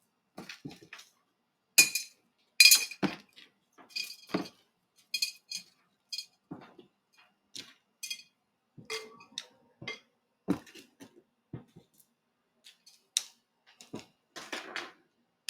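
Potting soil being scooped into a plant pot: a run of irregular scrapes and clinks, a few with a short ringing tone.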